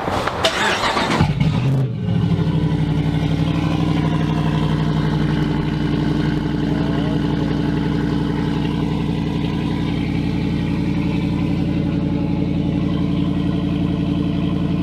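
Dodge Ram 1500's Hemi V8 cold starting: the starter cranks briefly, the engine catches about two seconds in, then settles into a steady idle. The oil pressure had first been built up by cranking with the fuel cut off, so it does not start dry.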